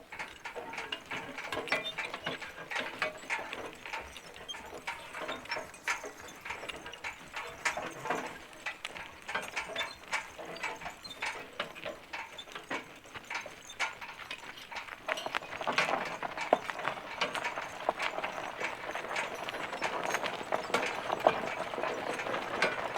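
Draft horse team walking in harness: chains and metal harness fittings rattling and clinking continuously, with hoofbeats, getting louder about two-thirds of the way through.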